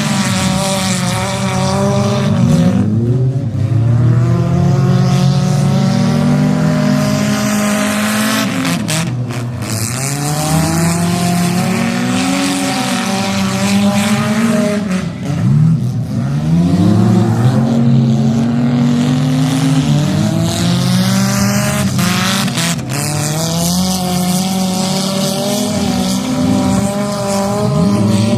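Several demolition derby cars' engines revving at once, their pitches swinging up and down every second or two as the drivers accelerate and back off, with a couple of sharp knocks.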